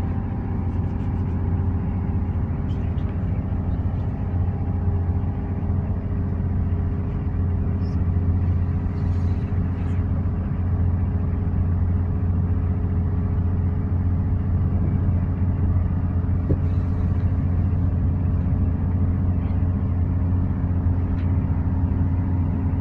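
Inside the passenger saloon of a Hitachi Class 800 IET under way on diesel power: a steady low drone and rumble with a few even hum tones from the engines.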